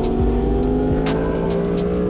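Sport motorcycle engine running with its pitch slowly falling as it decelerates, mixed with background music that has sharp percussion hits.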